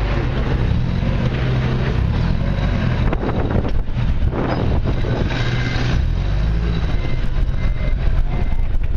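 Backhoe's diesel engine running steadily under load, a continuous low rumble.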